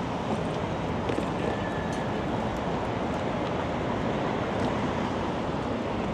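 Steady rushing wind buffeting the microphone, mixed with the constant noise of city street traffic.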